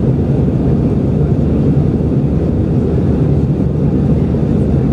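Steady, loud cabin noise of an Airbus A319 in its climb: a deep, even rumble of the jet engines and rushing air, heard from inside the cabin.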